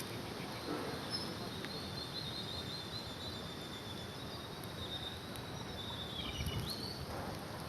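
Outdoor ambience with a bird calling: a quick series of high, repeated chirps, then a short rising note near the end, over steady background noise.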